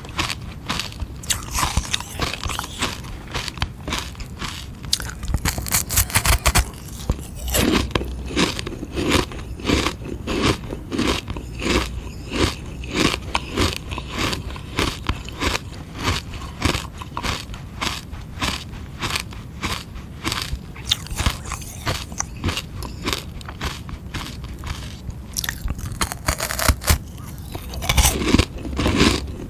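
Close-up biting and chewing of frozen sugar-water ice: a quick, continuous run of sharp crunches, with louder bites about six seconds in and again near the end.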